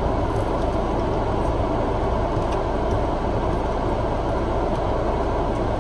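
Steady low mechanical hum, like an idling vehicle engine, with no change in level.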